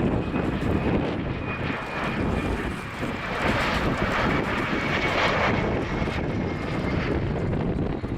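Embraer ERJ-135LR jet landing, its twin turbofan engines running with a high whine that falls slowly in pitch and grows loudest about halfway through. Wind rumbles on the microphone underneath.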